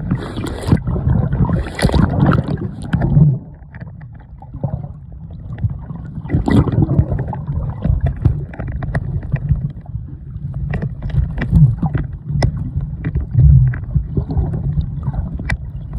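A loud, gusting low rumble of wind and waterfall spray buffeting the microphone, with scattered light clicks.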